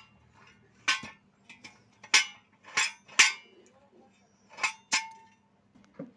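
Steel clanging as it is struck: about six sharp, ringing metal blows at irregular intervals, two close pairs among them, with a few lighter taps in between.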